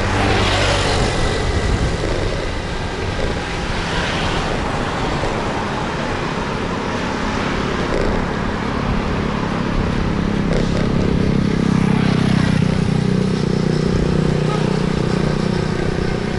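Road noise heard while riding through traffic: motor vehicle engines with wind rushing over the microphone. An engine's hum swells about two-thirds of the way through, then eases.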